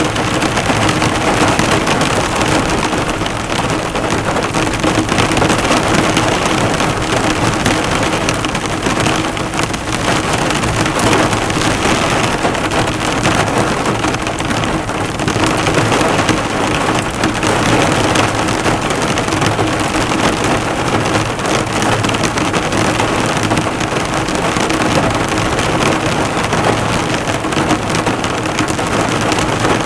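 Heavy rain drumming steadily on a car's hood and roof, heard from inside the car, with the drops bouncing off the bodywork.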